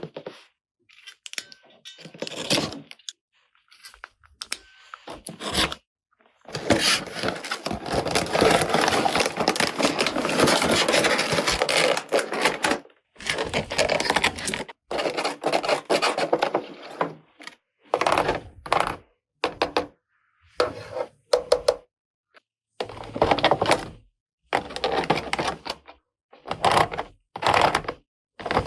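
Toy unboxing handling sounds: a series of short knocks, taps and scrapes from plastic toy parts and packaging, separated by brief silences. About a quarter of the way in comes a continuous scratchy rustle that lasts about six seconds.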